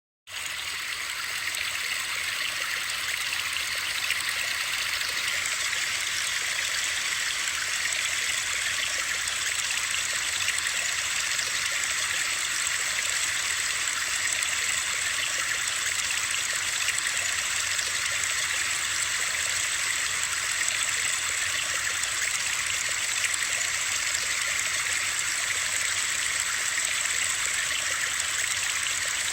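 Steady white-noise sleep sound: an even, rushing water-like hiss, mostly high-pitched with little bass. It starts abruptly out of silence just after the beginning, then holds unchanged.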